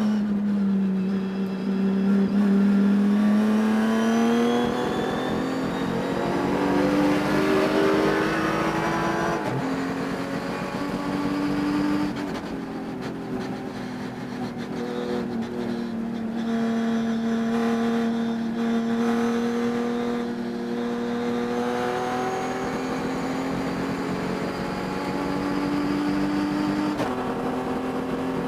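Race car engine running hard under throttle, its pitch climbing through the revs and dropping abruptly about nine and a half and twelve seconds in, then holding fairly steady. The engine has a high-RPM miss that the owner says is heard during the race.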